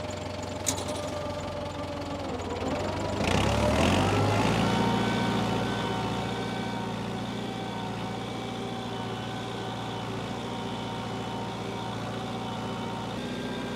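Tractor engine running. About three seconds in its pitch sags and it gets louder, then it picks up and runs steadily at a higher speed, as if it had been loaded and then recovered.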